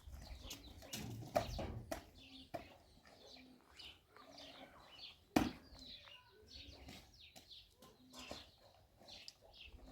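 Small birds chirping rapidly in short downward-sliding notes, with low, repeated calls underneath. A few knocks, one sharp and loud about five seconds in.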